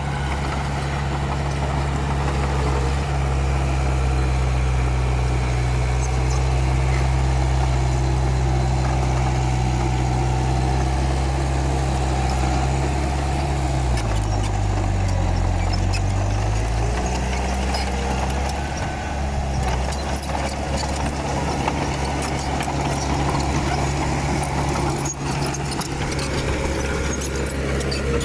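Komatsu D31P bulldozer's diesel engine running steadily. About halfway through, its pitch sags for two or three seconds and then picks back up.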